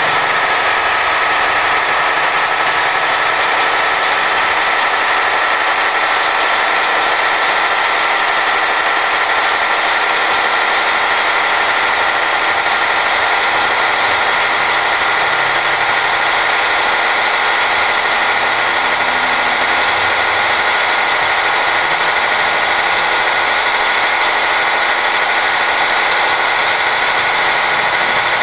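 Truck running at a steady speed: constant engine drone and road noise with a few steady whining tones, unchanging throughout.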